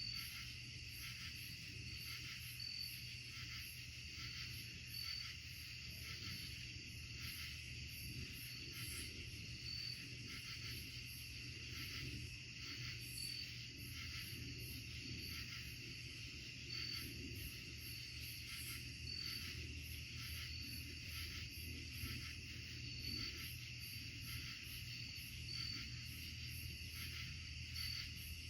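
Woodland insect chorus of crickets: a steady high trilling, with a short higher chirp repeating about once a second.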